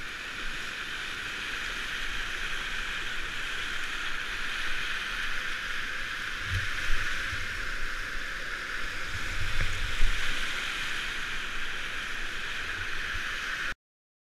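River water rushing past a kayak, a steady hiss, with a few low thumps on the microphone; the sound cuts off suddenly near the end.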